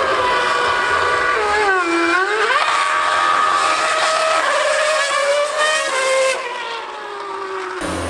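A 2013-era Formula One car's V8 engine screaming at high revs. The note dips off-throttle about two seconds in, climbs through several quick upshifts, then eases and fades toward the end.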